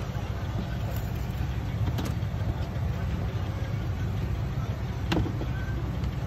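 Car engine running with a steady low rumble, and a couple of light clicks about two and five seconds in.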